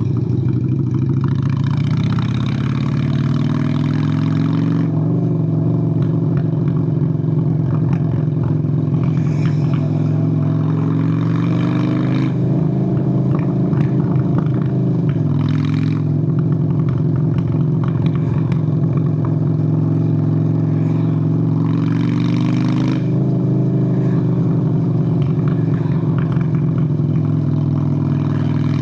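Honda Steed VLX 600 V-twin motorcycle engine running while riding. Its pitch rises and falls several times as the throttle opens and the rider shifts gears, with short bursts of hiss as it pulls.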